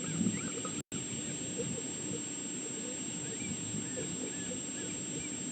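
Steady outdoor background noise with faint, short chirping calls scattered through it, and the sound cutting out completely for an instant about a second in.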